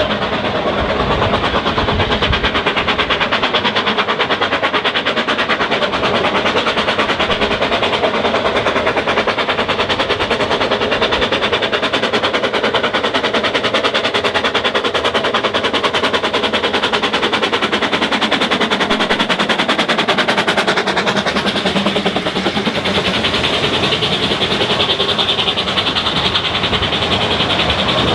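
Narrow-gauge train running at speed with a fast, steady, rapid pulsing beat.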